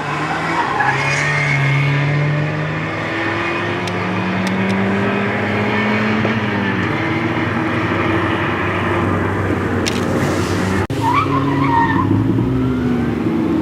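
Performance cars being driven hard on a sprint track: engines rising and falling in pitch through acceleration and gear changes, with tyre squeal about two-thirds of the way through.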